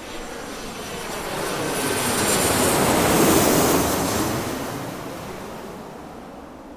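An airplane passing by: its engine noise swells, peaks about three seconds in, then fades away.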